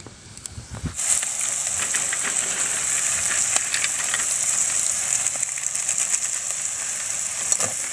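Oyster meat, shallots and garlic frying in a wok: a steady sizzle that starts about a second in, with faint clicks of a spoon stirring.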